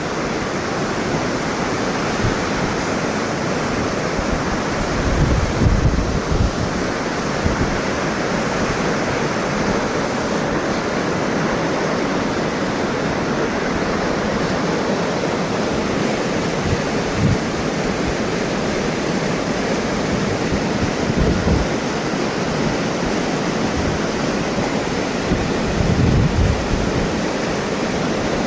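Steady rush of a tall waterfall, Thomson's Falls' 74 m drop, with wind buffeting the microphone in a few brief low gusts.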